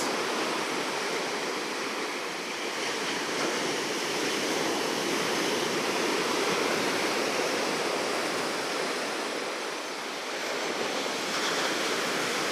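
Ocean surf breaking and washing up a beach: a steady rushing that swells and eases slowly, dipping about ten seconds in and building again near the end.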